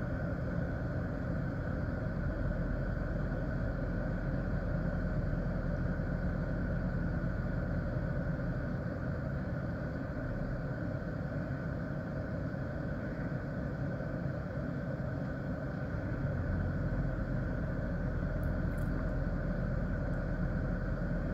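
Car engine idling, a steady low rumble heard from inside the car's cabin.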